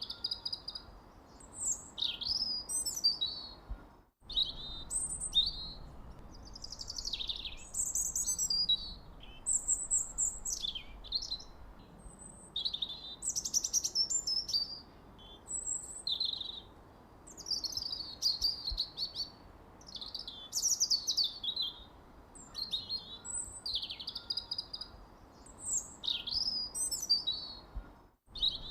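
Songbirds chirping and singing almost without pause, quick high chirps and sweeping notes one after another. The sound cuts out briefly about four seconds in and again near the end, like splices in the recording.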